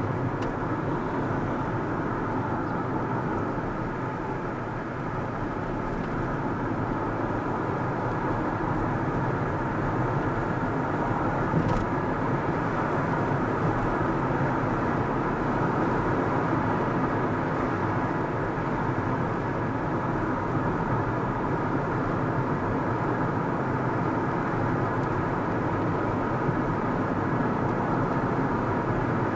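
Car driving on the road: steady tyre and engine noise with no change in speed, and a faint click about twelve seconds in.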